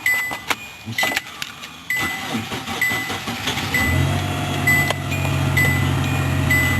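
Cold start of a 2003 Hyundai Sonata in winter cold. A warning chime dings about once a second throughout. After a few clicks the starter cranks for about two seconds, and the engine catches about four seconds in and settles into a steady idle.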